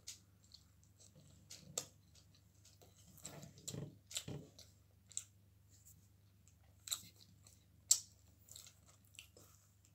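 A person chewing a mouthful of pizza: soft, scattered crunches and mouth clicks, with two sharper clicks about seven and eight seconds in.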